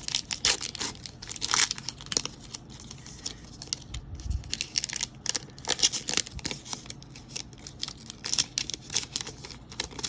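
Plastic wrapper of an NBA Hoops trading-card pack crinkling and tearing as it is handled, in an irregular run of sharp crackles, with a dull bump about four seconds in.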